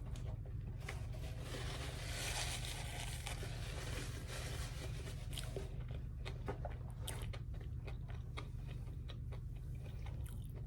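Close-up eating sounds: biting, crunching and chewing with many small wet mouth clicks, over a steady low hum. A soft hiss swells for a couple of seconds near the start.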